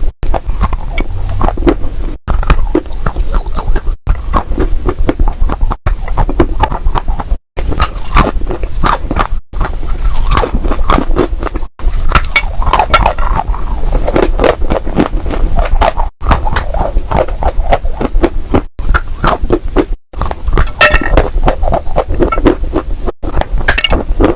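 Dry crunchy clay being crushed and crumbled, a dense run of crackles and crunches, in short clips spliced together with abrupt cuts every second or two, over a steady low hum.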